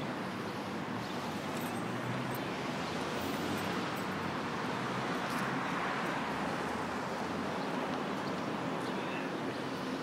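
An LS tractor's diesel engine running steadily, mixed with outdoor noise.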